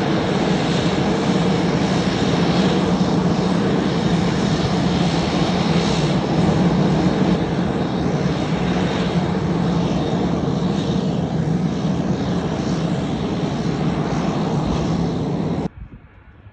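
Pratt & Whitney PT6A turboprop engines of Navy T-6 Texan II trainers at takeoff power on a two-ship departure: a loud, steady drone with a low hum and a thin high whine. It cuts off suddenly near the end.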